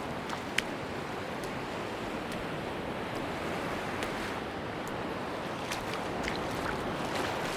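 Sea surf washing on a beach: a steady rushing hiss, with scattered light clicks through it.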